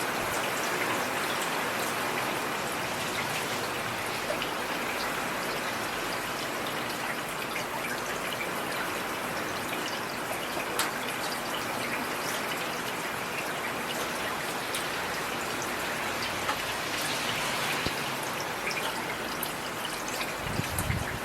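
Heavy rain falling steadily, an even hiss of drops with scattered small drop ticks.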